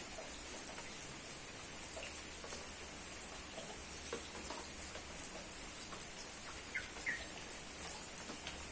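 Steady rain, with scattered drops ticking on surfaces over a high hiss. A couple of short high chirps come about seven seconds in.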